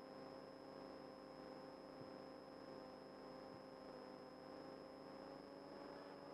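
Near silence: a faint steady hum with a thin high whine.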